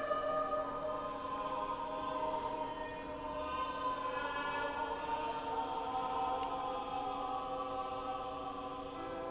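A choir singing long held chords, the notes shifting slowly from one chord to the next.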